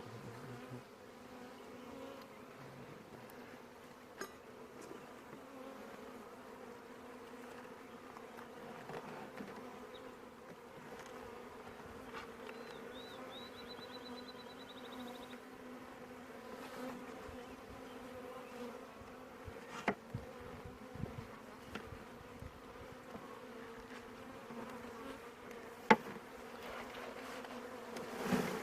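A large mass of honeybees buzzing in a steady, even hum. A few sharp clicks sound over it, the loudest about 26 seconds in.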